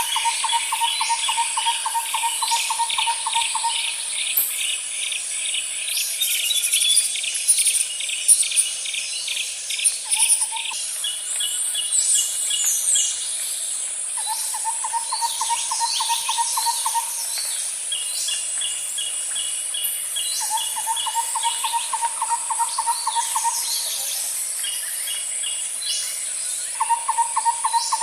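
Nature ambience of birds and insects: a steady high-pitched insect drone, with a low, fast trill repeating in bouts of about three seconds, faster pulsed chirping higher up, and scattered short bird chirps.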